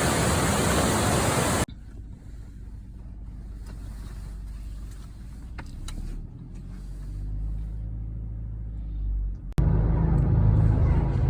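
Loud rushing noise of a waterfall cuts off abruptly about a second and a half in. It gives way to the low, steady drone of the tour boat's engine, which comes in louder again after another sudden cut near the end.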